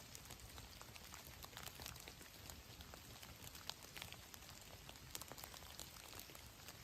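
Faint light rain: scattered drops ticking irregularly over a soft steady hiss.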